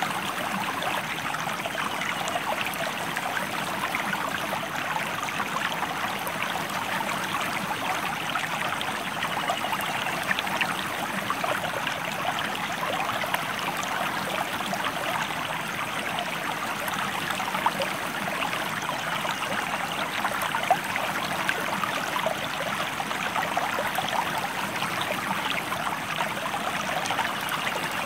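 Water of a stream flowing steadily, a dense, even babble of small splashes and trickles.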